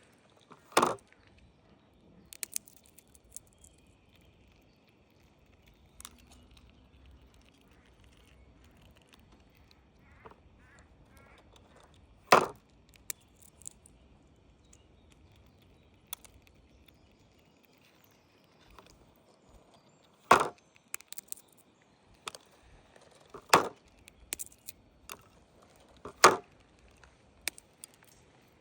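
A series of sharp knocks: five loud ones spread out, the last three a few seconds apart, with fainter clicks and ticks between.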